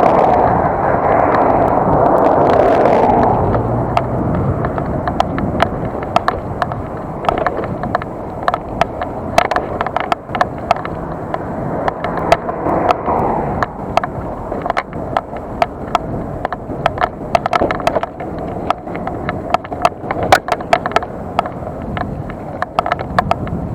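Bicycle riding over pavement: a steady rush of wind and tyre noise, strongest in the first few seconds, then many sharp, irregular clicks and rattles as the bike jolts over bumps.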